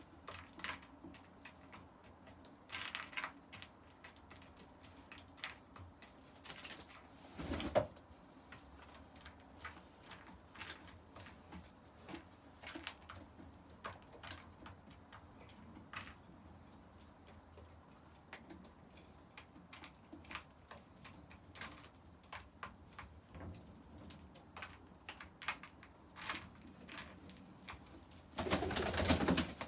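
Domestic pigeons cooing, with many short light taps scattered throughout. A louder burst of noise lasting about a second comes near the end.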